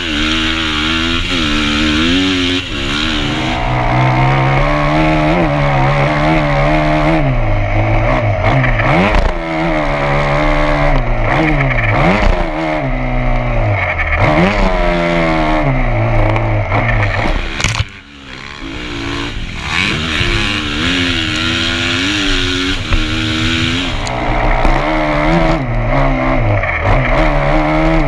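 Motocross dirt bike engine ridden hard on a track, revving up and falling back again and again as the rider works the throttle and gears, heard from an onboard camera. About two-thirds of the way in there is a sharp crack and the engine drops off for a moment before pulling again.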